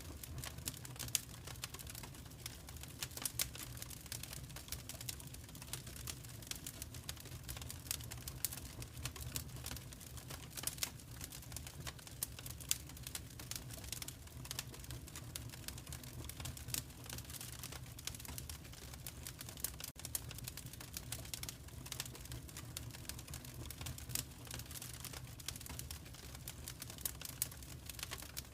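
Wood fire crackling in a fireplace: a dense run of small irregular pops and snaps over a steady low rumble.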